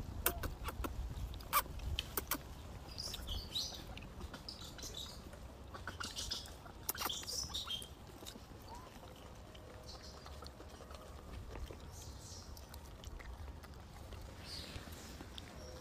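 Faint high bird chirps in short clusters, with scattered small clicks and taps over a low steady rumble.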